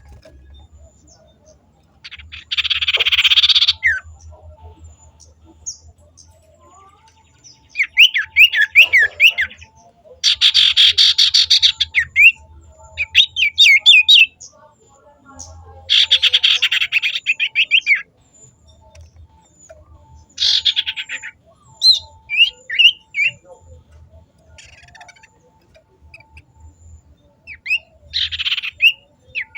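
Caged songbird singing in repeated loud bursts of high chirps and rapid trills, each a second or two long, with pauses between them.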